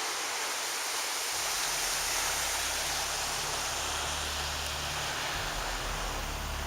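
Pacific surf washing onto a sand beach: a steady rushing hiss of breaking waves, with low sustained tones coming in about a second in.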